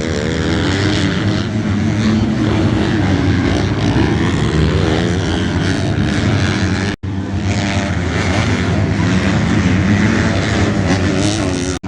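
Several motocross motorcycle engines running and revving at once, their pitches wavering up and down as the bikes race. The sound cuts out for an instant about seven seconds in.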